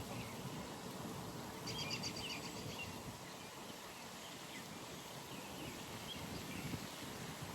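Outdoor pond ambience: a steady low rumble and hiss. About two seconds in, a bird gives a quick trill of rapid high notes, followed by faint scattered chirps.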